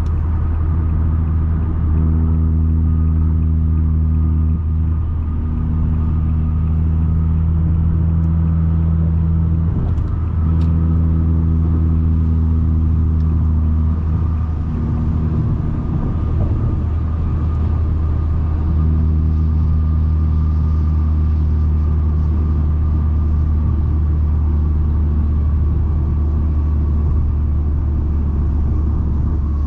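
Straight-piped exhaust of a 2020 Nissan Altima droning at a steady pitch while cruising in sport mode, heard from inside the cabin. The drone eases off briefly a few times and comes back.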